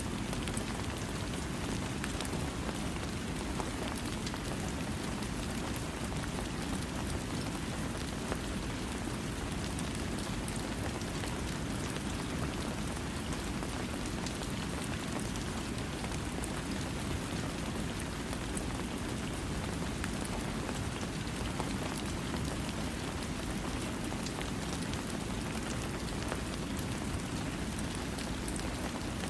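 Steady rain falling, with no thunder: an even hiss, fullest in its low part, with faint scattered drop ticks.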